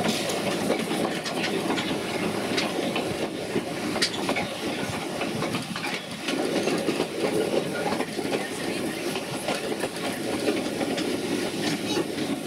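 A 600 mm narrow-gauge train running along the track, heard from on board: a steady rumble with frequent irregular clicks and rattles from the wheels and wagons.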